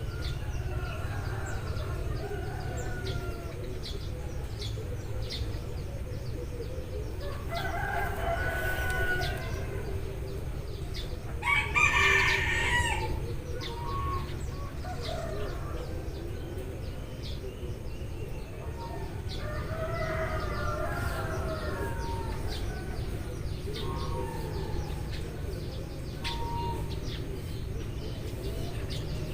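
Roosters crowing three times, the loudest about twelve seconds in, over a steady chatter of short, high Eurasian tree sparrow chirps and a low rumble.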